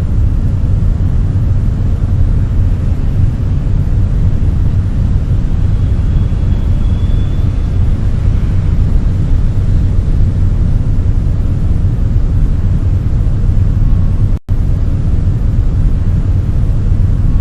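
Loud, steady low rumbling noise, cut off for an instant about fourteen and a half seconds in.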